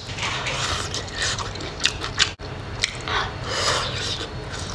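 A person eating: soft wet chewing with a few light clicks.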